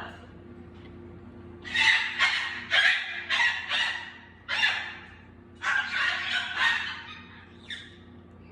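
Baby parrots squawking: about a dozen short, harsh calls in three quick clusters.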